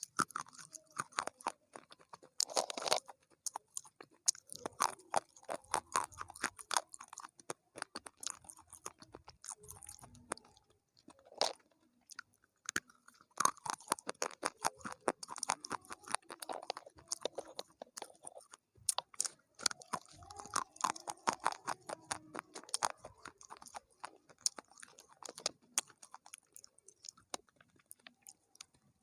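Close-miked chewing of crunchy food: rapid crisp crunches and crackles in bouts, with short pauses between mouthfuls.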